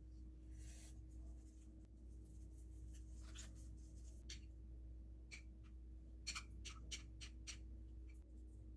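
Faint scratchy handling sounds from food preparation: a brief rustle just after the start, a few crisp scrapes, then a quick run of about six short sharp scrapes or crackles near the end, over a steady low hum.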